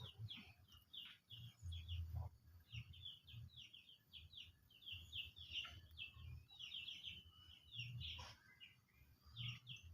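Faint bird chirping: a rapid run of short, high chirps that goes on for several seconds, over a low, uneven rumble.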